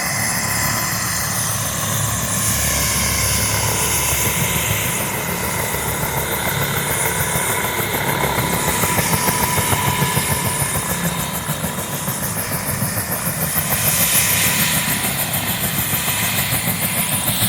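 Cal Fire helicopter's turbine engine and rotor running steadily close by, with a fast, even blade chop and a steady turbine whine.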